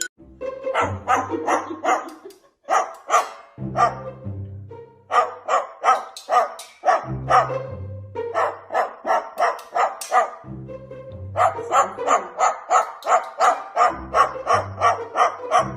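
Quick runs of dog-like barking, about three or four barks a second, broken by short pauses, over background music with a bass line.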